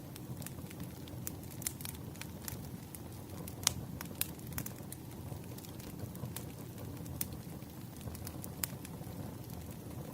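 Wood fire burning, a steady low rumble with irregular sharp crackles and pops, one louder pop a little over a third of the way in.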